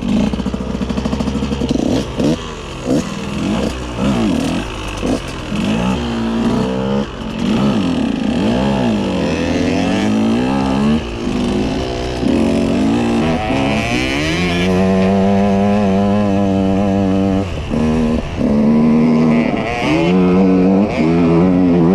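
KTM EXC 125 two-stroke enduro engine revving up and down again and again in short bursts, then held at high revs for a few seconds from about the middle, with brief throttle cuts in between.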